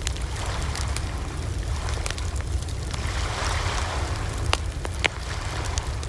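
Wood fire burning: a steady low rumble with scattered crackles, two louder sharp pops about four and a half and five seconds in.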